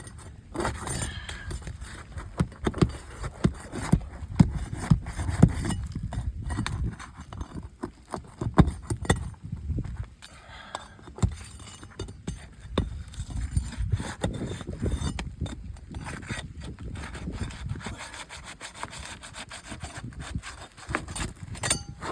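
Flat pry bar scraping and levering under roof shingles, with irregular sharp knocks and clicks as the roofing nails are worked loose.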